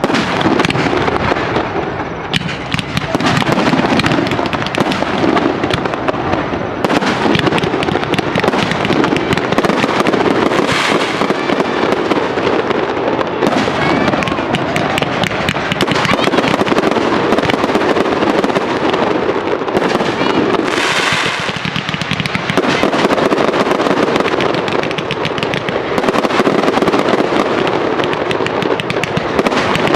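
A fireworks display going off in a dense, continuous barrage of crackling and popping shells. There are brief brighter crackles about a third and two thirds of the way through.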